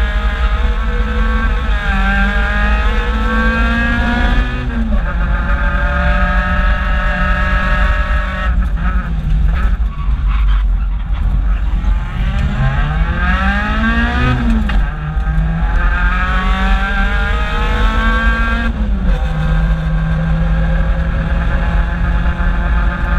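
Toyota AE86's four-cylinder engine heard from inside the cabin while it is driven hard, the revs climbing and dropping back several times. There is one long climb about twelve seconds in that falls away sharply near fifteen seconds, with steadier stretches in between.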